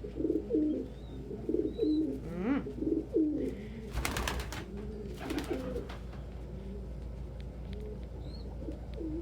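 Domestic pigeons cooing over and over, low rolling coos, with two short bursts of rustling about four and five seconds in.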